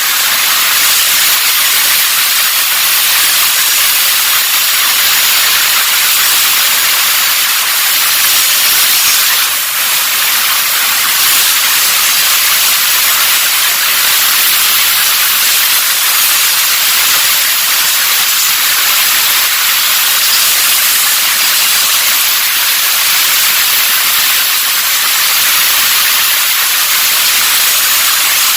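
Steady hiss of escaping air or spray, with a short dip about nine and a half seconds in.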